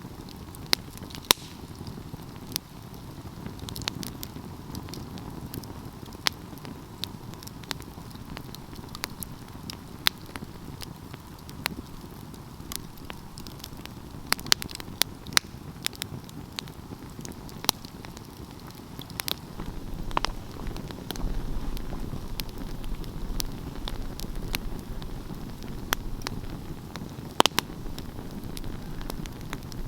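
Wood fire burning, with a steady low rush of flame and irregular sharp crackles and pops from the burning wood; a few pops stand out louder.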